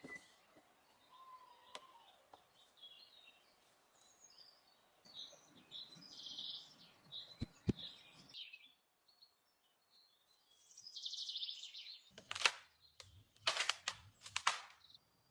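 Small birds chirping and calling in the woods, a scatter of short, high notes. Near the end come several short bursts of rustling noise.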